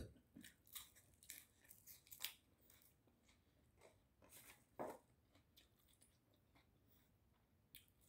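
Faint chewing: scattered soft crunches and wet mouth clicks, most frequent in the first three seconds, with a slightly louder one about five seconds in, then near silence.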